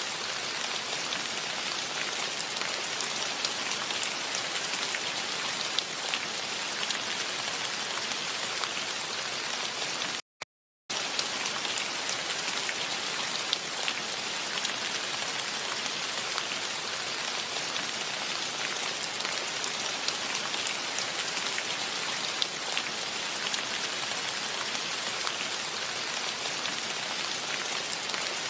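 Steady rain falling, a dense hiss with many small drop ticks. The sound cuts out completely for about half a second around ten seconds in, then resumes unchanged.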